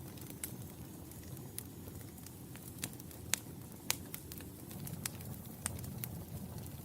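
Wood fire in a fireplace crackling: irregular sharp pops and snaps over a steady low rumble of the flames, with the loudest pops a little past the middle.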